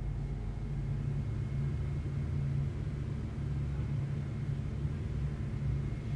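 Steady low rumble with no distinct knocks or steps, and a faint thin high tone above it.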